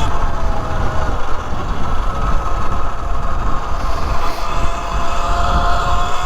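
E Ride Pro SS 3.0 electric dirt bike's motor whining steadily under power during a wheelie, its pitch dipping slightly near the start and then holding. Heavy wind rumble on the helmet-mounted microphone from riding speed.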